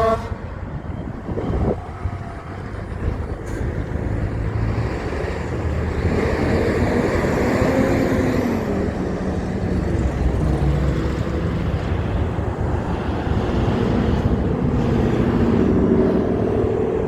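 Road traffic with a heavy truck's engine going past. The noise builds after a few seconds, and partway through an engine note falls in pitch.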